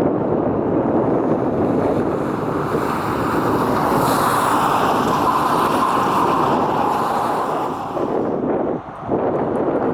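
Jet airliner passing close by, its engines making a loud rushing noise. A higher hiss and whine swell about four seconds in, then fade near the end.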